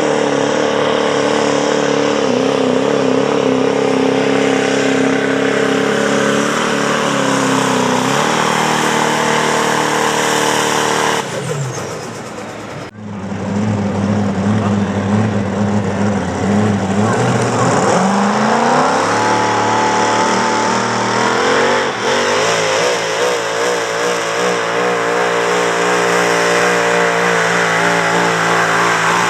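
High-horsepower pulling-truck engines running hard at high revs. The sound breaks off about 12 seconds in and a second engine takes over, its pitch climbing as it revs up.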